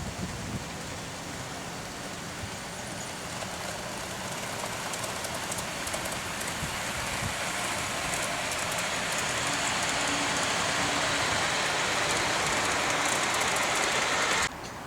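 Steady rushing noise of a moving train that slowly grows louder, then cuts off suddenly near the end.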